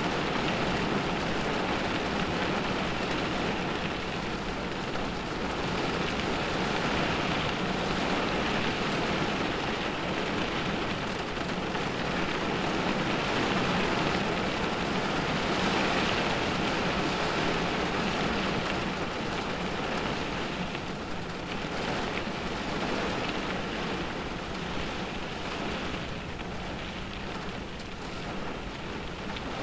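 Rain drumming on a car's roof and windows, heard from inside the cabin, steady and dense, swelling and easing as wind gusts drive it.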